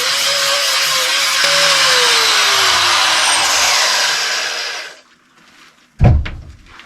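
Angle grinder with a flap disc grinding the edges of steel tong handles, a hissing grind over a motor whine that drops in pitch partway through. The grinding stops about five seconds in, and a single loud knock follows about a second later.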